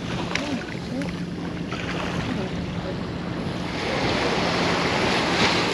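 Ocean surf washing onto the beach, with wind on the microphone; the wash swells louder near the end.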